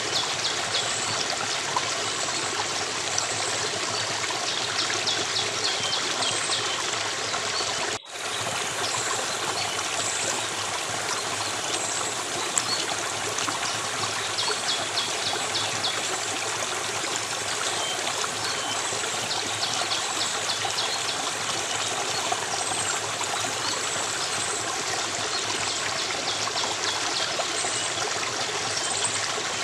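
Stream water running and trickling steadily. A high, rapid trill comes back every several seconds, and the sound drops out briefly about eight seconds in.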